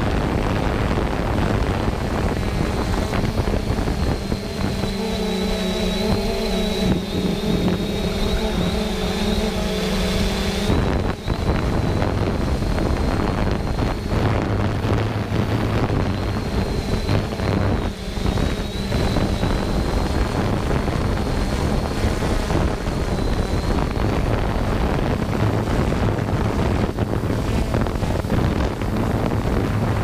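3DR Solo quadcopter's motors and propellers running in flight: a steady high whine over rushing wind noise on the microphone. A lower droning hum joins about four seconds in and cuts off suddenly about eleven seconds in.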